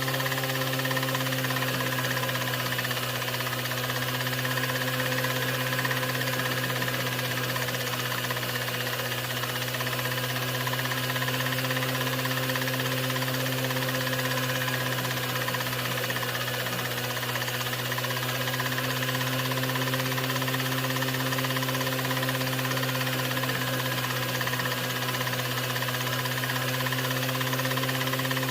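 A steady, unchanging low machine hum with hiss over it, with no starts, stops or knocks.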